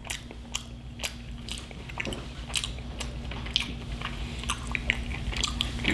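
Close-up mouth sounds of chewing a bite of fried mac and cheese ball with the mouth closed: irregular wet clicks and small crunches.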